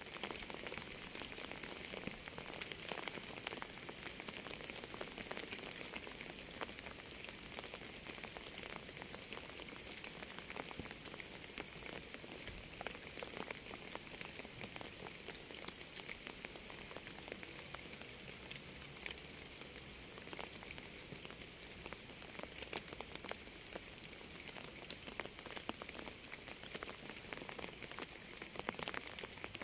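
Steady rain: a constant hiss with many separate raindrop ticks throughout.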